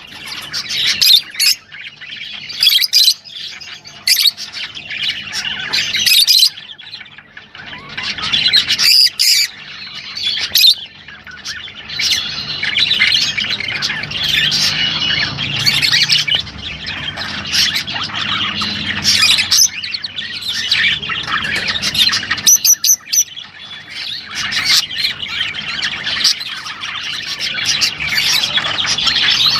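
Many small cage birds chattering and chirping without a break, with frequent sharp squawks and quick high notes.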